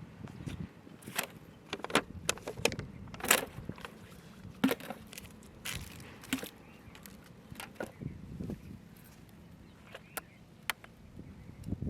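A run of sharp, irregular clicks and knocks, about a dozen, the loudest about three seconds in, over a low steady background.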